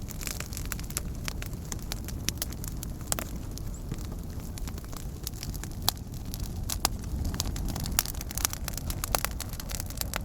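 Fire crackling: frequent sharp, irregular pops and snaps over a steady low rumble of burning.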